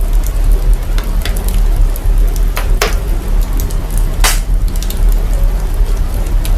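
Fire crackling with sharp pops every second or so, put through signal processing that lays a heavy, steady deep sub-bass rumble under it.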